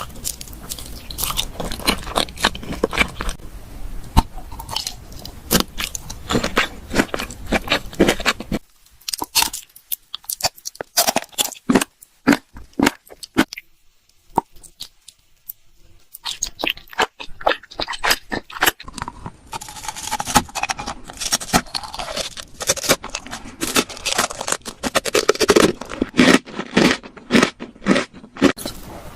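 Close-miked mouth sounds of someone eating: a dense run of sharp crunches and chewing. About a third of the way through it thins to sparser, quieter crunches for several seconds, then picks up again.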